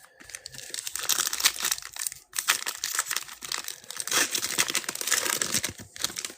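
Wrapper of a trading card pack being torn open and crinkled by hand, a dense run of crackling with a brief pause a little past two seconds.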